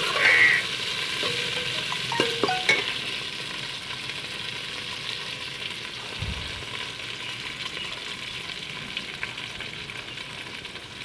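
Chopped okra sizzling steadily as it fries in oil in a metal pot, with a few clicks and scrapes of a slotted metal spoon against the pot in the first few seconds.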